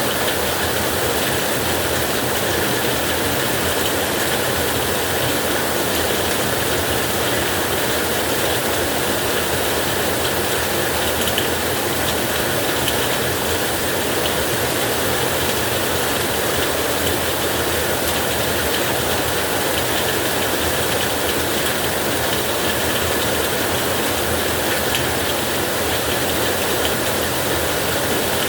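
Heavy rain drumming steadily on a tin roof, a dense, even patter with no let-up.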